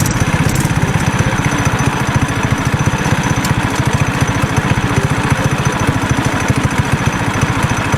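Small off-road vehicle engine running steadily with an even low pulse, ridden at a fairly constant throttle.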